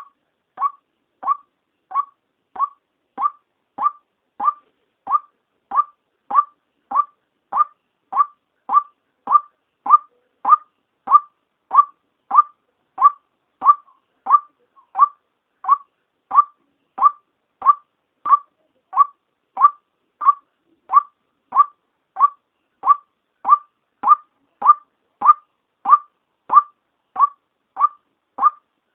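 Female white-breasted waterhen's call, played as a trapping lure: one short note near 1 kHz repeated evenly, about one and a half times a second, without a break.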